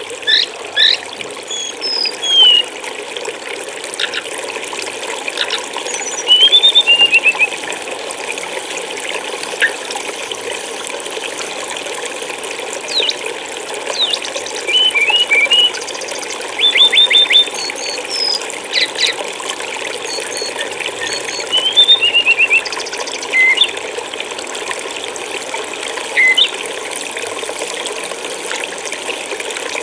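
Steady flowing, trickling water with a small songbird chirping over it: repeated short chirps, quick rising and falling notes and several fast trills.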